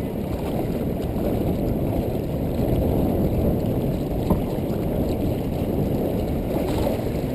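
Steady rush of strong wind on the microphone and water running past the hull of a small sailboat under way, with a single short knock about four seconds in.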